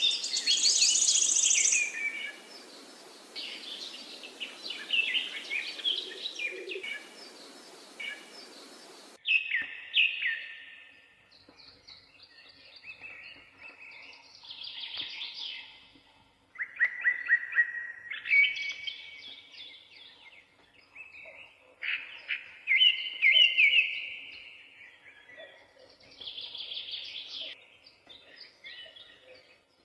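Parakeets chirping and chattering, many quick overlapping chirps and warbling calls. A steady hiss sits under them for the first third and cuts off suddenly.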